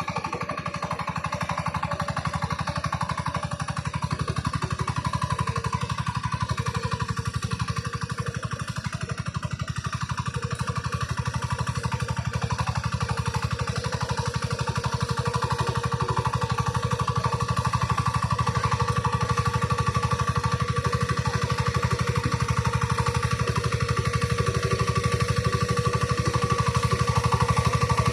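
Tractor engine running steadily while ploughing, with a rapid even chugging, growing gradually louder.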